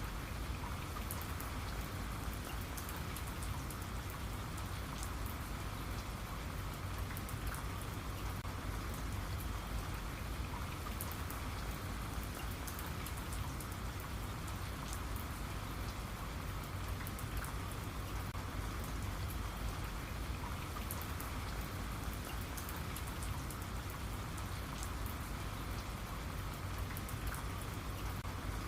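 Steady rain, with a dense patter of drops striking a surface.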